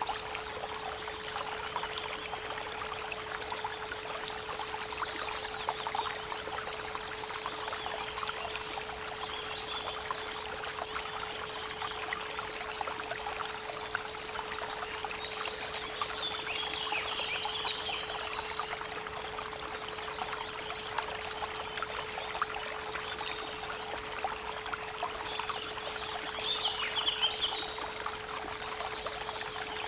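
Creek water running and trickling, with birds chirping now and then, under a steady 432 Hz pure tone.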